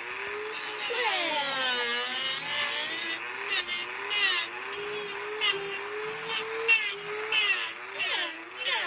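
Dremel rotary tool carving a pine derby-car block: its motor whine wavers in pitch as the bit loads and unloads. From a few seconds in, repeated scratchy bursts come as the bit bites into the wood.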